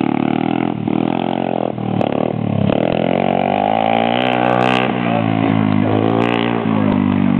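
Motorcycle engine running as it is ridden, its pitch rising and falling as the throttle opens and closes.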